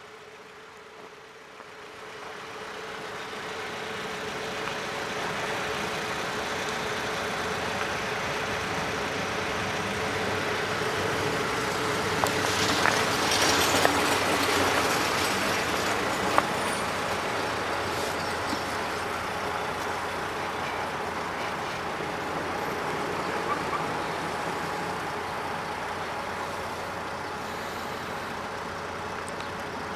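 Road vehicle noise: a steady hum and rushing sound swells up over the first few seconds, peaks about halfway through with a few sharp clicks, then slowly fades, like a heavy vehicle nearby.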